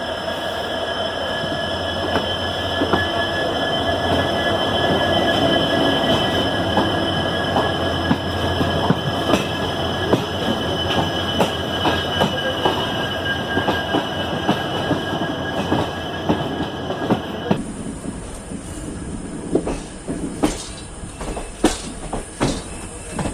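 Passenger train coach running on the rails, its wheels squealing with steady high tones over a rumble, while rail joints click through it. About three-quarters of the way through, the squeal and hum drop away abruptly, leaving louder, irregular wheel clicks and knocks.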